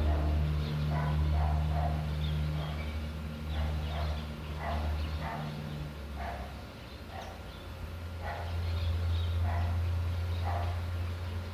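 Short animal calls repeated about once a second, over a low steady hum.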